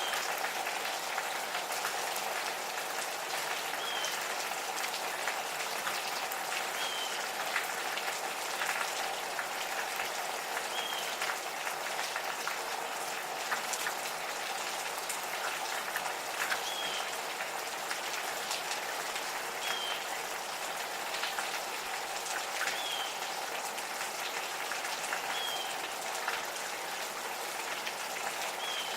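Steady gentle rain pattering, with scattered individual drops, while a bird repeats a single short, slightly falling chirp every few seconds.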